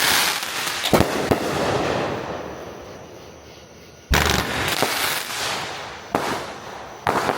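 Multi-shot consumer fireworks cake firing: sharp bangs about a second in, again about four seconds in and near the end, each followed by crackling that fades away over a couple of seconds.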